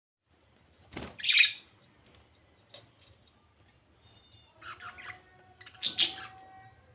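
Pet budgerigars calling: a loud harsh squawk about a second in, some chirping and thin whistles around four to five seconds, and another loud squawk near six seconds.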